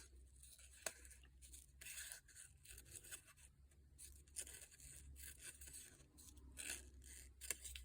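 Faint scissors snipping through paper, cutting out a zigzag, with short irregular snips and paper rustles.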